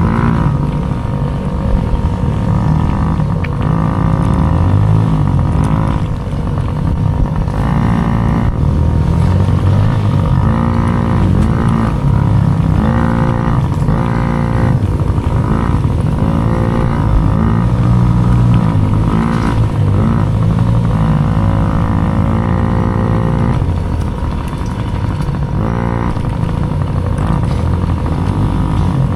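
Small dirt bike engine racing, its pitch climbing and dropping over and over as the throttle is worked and gears change, over a heavy low rumble.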